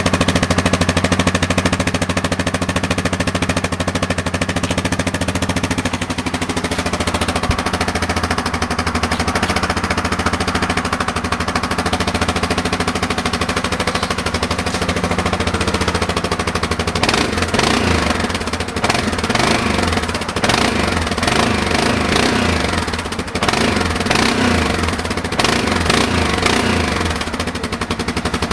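Yamaha Grizzly 700's single-cylinder four-stroke engine running through an aftermarket exhaust tip, with a rapid, even exhaust popping at idle. From about two-thirds of the way in, the throttle is blipped several times and the note rises and falls.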